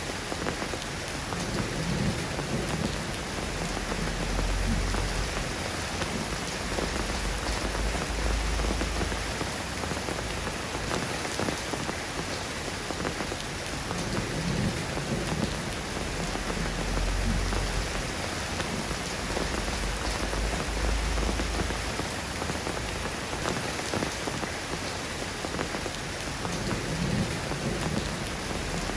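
Steady rain falling in an even hiss, with a low rumble swelling up a few times.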